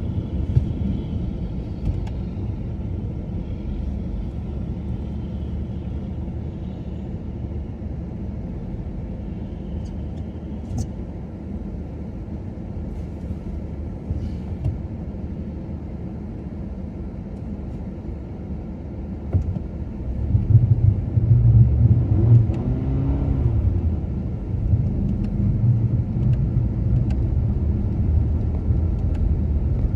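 A car driving on snow-covered streets: a steady low rumble of engine and road noise, growing louder about two-thirds of the way through, with a brief rise and fall in engine pitch.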